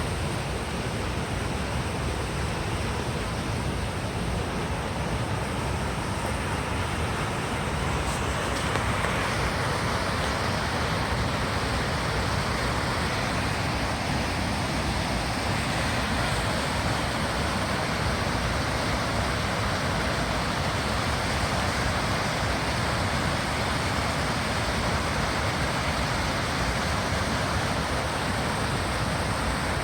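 Waterfall: a steady rush of falling water, growing louder about a third of the way in.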